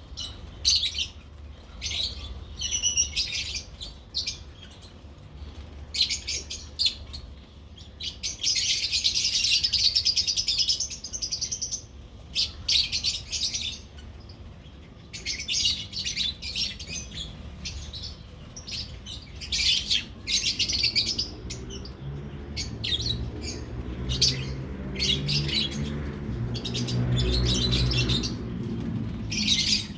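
Lovebirds chirping in short, sharp, high calls, with a longer run of rapid chattering about nine seconds in. A low rumble builds up during the last third.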